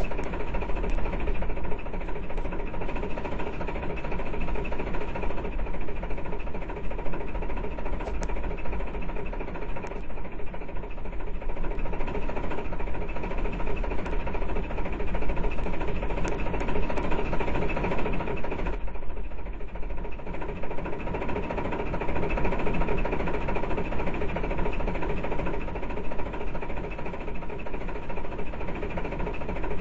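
A machine or engine running steadily with a continuous rattle and a steady high hum; the higher sounds ease off briefly about two-thirds of the way through.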